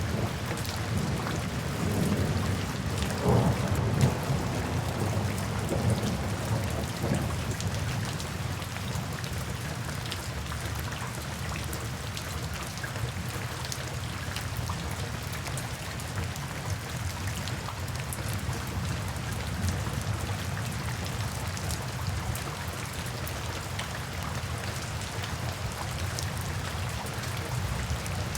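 Steady rainfall, with a low rumble of thunder rolling through from about two seconds in to about seven seconds in.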